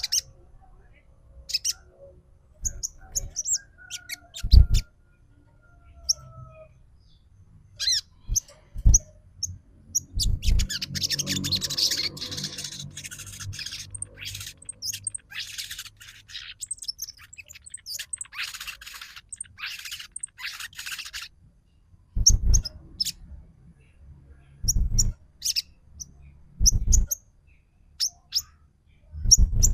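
Sogon trotol bird calling, as used as a lure to set off a caged bird: sharp chirps and short harsh calls spaced out, with a long stretch of dense, rapid chattering from about ten to twenty-one seconds in.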